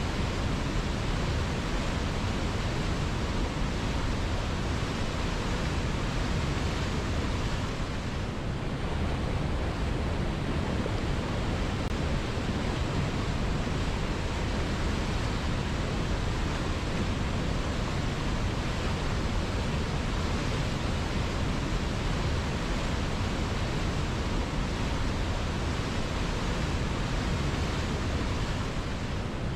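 River water flowing steadily, a continuous rushing with most of its weight in the low end.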